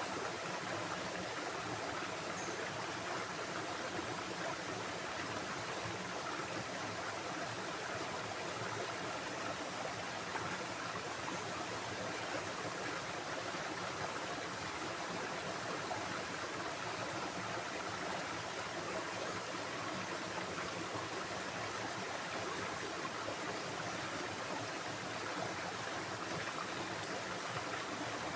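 Flowing stream water making a steady rushing sound.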